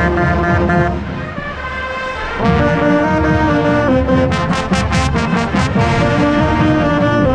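Marching band playing from inside its ranks: brass and saxophones holding loud chords over drums. It drops back for a moment about a second in, then the full band comes back in loud, with a run of sharp percussion hits a little past the middle.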